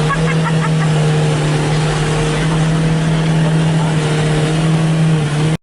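Ford Focus engine revved hard and held at high revs, a loud steady drone with little change in pitch. It cuts off abruptly near the end.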